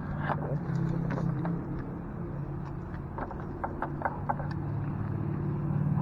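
A steady low hum with scattered sharp clicks and taps, bunched into a quick run of clicks about three to four and a half seconds in.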